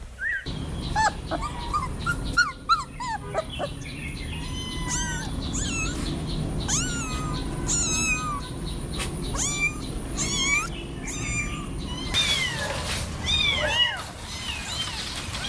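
Kittens mewing over and over in short, high-pitched cries that rise and fall, several calls overlapping at times.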